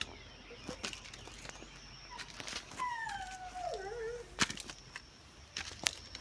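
A single drawn-out animal cry, falling in pitch, about three seconds in, among scattered sharp taps and clicks.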